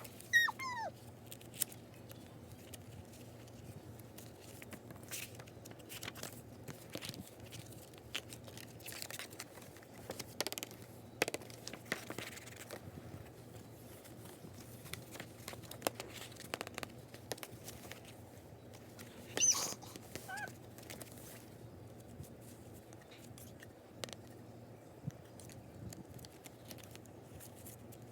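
Hands unboxing a K-pop album: packaging crinkling and tearing, with scattered small clicks and taps as parts are handled. Short high squeaks with falling pitch come just after the start and again about two-thirds through.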